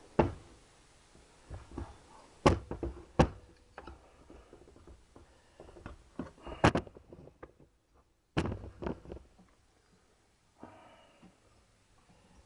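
Sharp knocks and clunks of metal parts and tools being handled on a workbench, a few separate strikes with quiet gaps between them, and a short scrape near the end.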